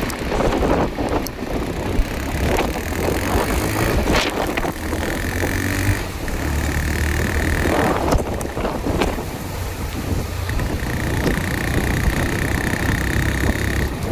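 Strong wind gusting and buffeting the microphone with a deep rumble, the gusts of a tornado strong enough to send barricades flying. A steady high tone sounds twice, about five seconds in and again in the second half.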